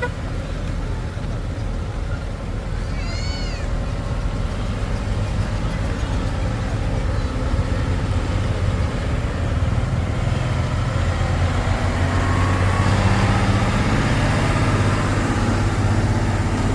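Heavy diesel engine running with a deep steady drone that gets louder from about ten seconds in. A brief high squeal rises and falls about three seconds in.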